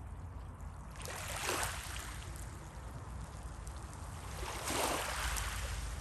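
Sea surf: waves washing in over a steady low rumble, with two louder hissing surges, one about a second in and one near the end.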